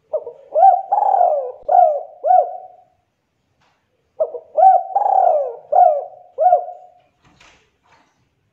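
Spotted dove (tekukur) cooing: two matching phrases, one about a second and a half after the other. Each phrase has several short hooting notes with a longer drawn-out note early in it. A few faint clicks follow near the end.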